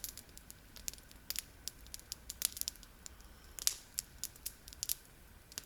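Campfire crackling, with irregular sharp snaps and pops from the burning wood.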